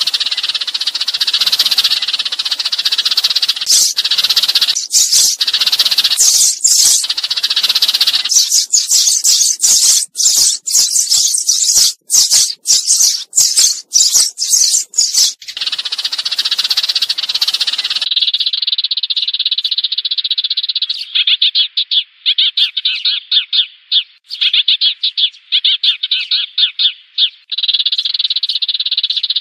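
Sparrows chirping rapidly and continuously: a recorded sparrow flock call of the kind played as a lure to draw sparrows into a trap. About two-thirds of the way through the sound changes abruptly to a thinner run of fast, evenly repeated chirps, as from a different recording.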